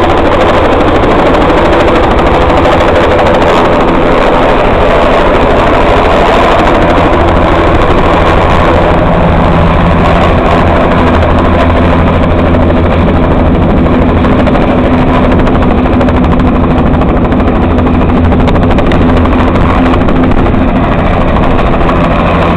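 Air ambulance helicopter's engine and rotor running loudly close by, a steady, rapid beating of the blades.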